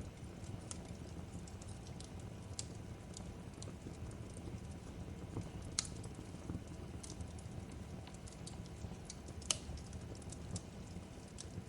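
Fireplace crackling: scattered sharp pops and snaps over a steady low rumble, with two louder pops, one about halfway through and one nearer the end.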